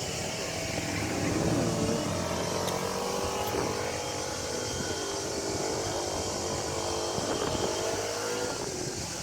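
A motor vehicle's engine going by on the road, its pitch rising and falling as it passes.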